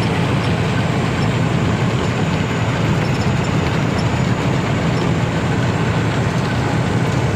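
Truck engine and road noise heard from inside the cab while driving, a steady drone that doesn't change.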